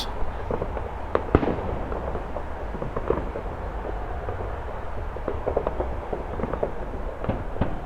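Fireworks going off in the distance: scattered bangs and pops at irregular intervals, the loudest about a second and a half in and a quick cluster near the end, over a steady low background rumble.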